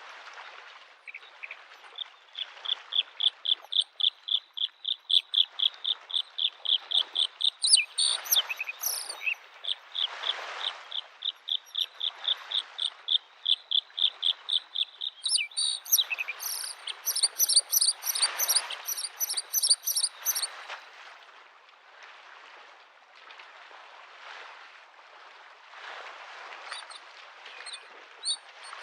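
A bluethroat singing a long run of rapid repeated notes, about four a second, then a faster series of higher notes. The song stops about twenty seconds in. Small lake waves lap at the shore underneath as a soft wash that swells every couple of seconds.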